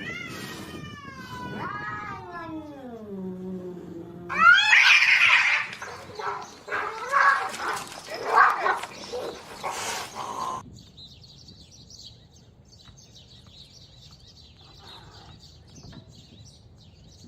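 Domestic cats fighting. A long, drawn-out caterwaul falls steadily in pitch, then about four seconds in comes a loud burst of screeching and yowling. It cuts off at about ten seconds, leaving only faint high chirps.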